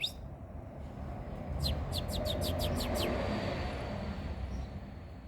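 Saffron finch calling: a quick run of about nine high, downward-slurred notes about a second and a half in, after another run that ends right at the start. Under it is a steady rushing noise that swells in the middle.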